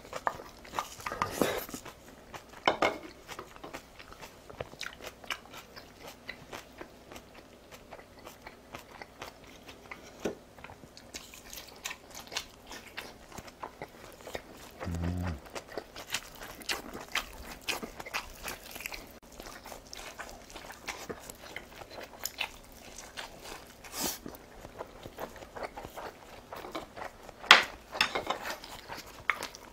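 Close-up mouth sounds of a person eating: wet chewing with many short crunches and clicks. There is a brief low closed-mouth hum about fifteen seconds in, and one sharp louder click near the end.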